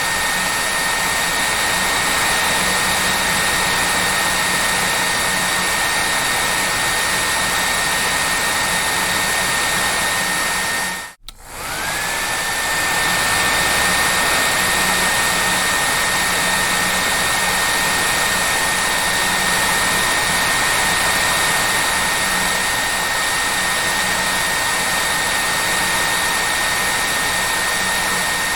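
Hair dryer running: a steady blowing rush with a high motor whine. About eleven seconds in it cuts out for a moment, then the whine rises back up to speed and runs on steadily.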